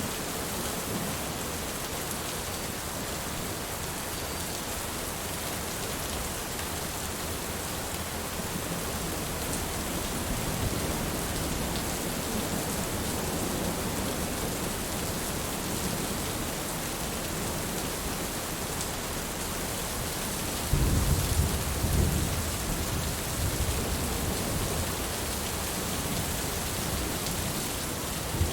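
Steady rain pouring down, with a low rumble of thunder that swells about two-thirds of the way through and dies away.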